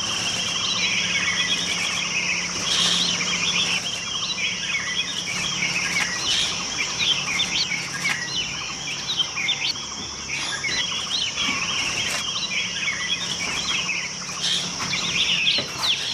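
Many small birds chirping and twittering at once, in quick overlapping short calls, over a steady high-pitched drone.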